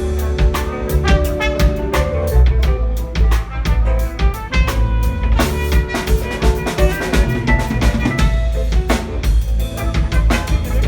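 Live band music: a drum kit keeping a steady beat with rimshots, over a deep bass line and held instrument notes.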